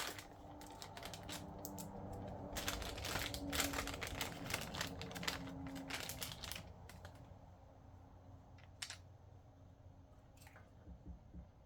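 Hands working plastic shipping caps and threaded water fittings on a tankless water heater's connections: a dense run of small clicks, rattles and crinkles, busiest in the middle, then a few scattered clicks near the end.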